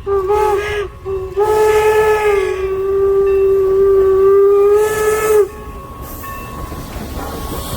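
Steam whistle of Norfolk & Western 4-8-0 steam locomotive No. 475: a short blast, then a long steady blast of about four seconds that cuts off sharply, followed by the hiss and running noise of the train.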